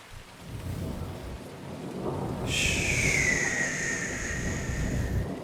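Rain with the low rumble of thunder. About two and a half seconds in, a high tone comes in and slowly falls in pitch for about three seconds.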